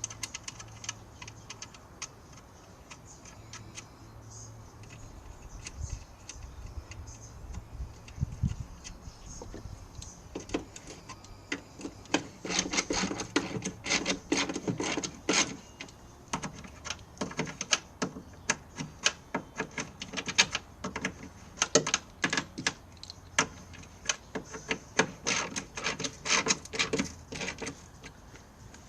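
Quick, irregular metallic clicks and clinks of hand tools working on a Vespa scooter wheel. They come thick and fast from about twelve seconds in, after a quieter start with a faint low hum.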